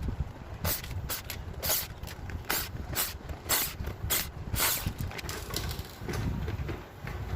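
Irregular clicks and knocks, about one or two a second, of plastic parts and screws being handled as an evaporative air cooler is taken apart to remove its fan blade and motor.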